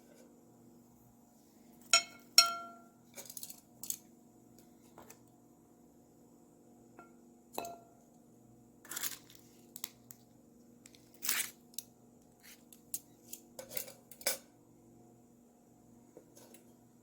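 Dishes and glassware being handled and set down: two sharp ringing clinks about two seconds in, then scattered lighter clinks and scrapes. A faint steady hum runs underneath.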